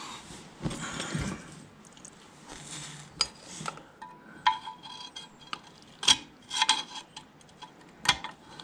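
Screwdriver clinking and scraping against a steel split pin in a tractor's brake linkage as the pin is bent over: scattered light metal clicks, several ringing briefly in the second half.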